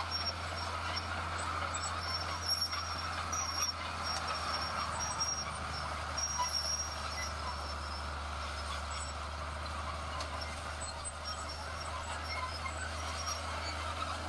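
Heavy diesel construction machinery running steadily with a low engine drone. Short high-pitched tones come and go, mostly in the first half.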